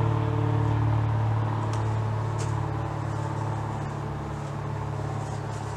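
A steady low mechanical hum that slowly grows quieter.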